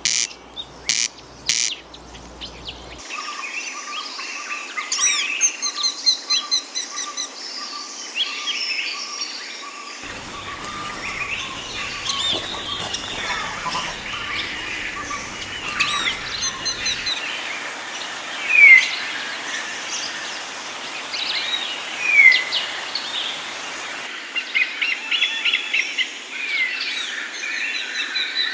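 Mixed birdsong chorus: many birds chirping and whistling over one another, the background changing abruptly several times as the recording is spliced. It opens with a loud call repeated about twice a second, and two loud, quick downward whistles stand out about two-thirds of the way through.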